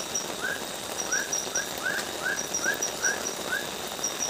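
A night animal calling in the forest: short chirping notes repeated evenly, about two or three a second, over a steady hiss, with a higher, rapidly pulsing chirr in separate bursts.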